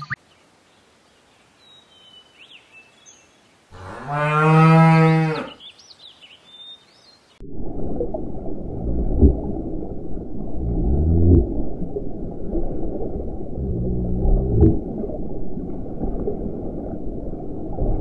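One loud, long, low animal call lasting about two seconds, a few seconds in, over faint bird chirps. It then switches suddenly to steady underwater water and bubble noise, with a few short low calls from swimming seals.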